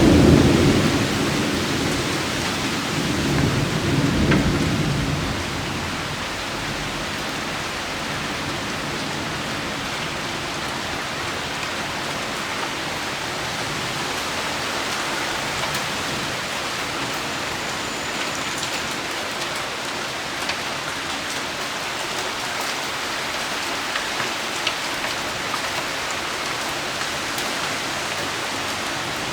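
Thunder breaks in a low rumble right at the start, and a second rumble swells about three seconds in and dies away by six seconds. Steady rain patters on the ground underneath.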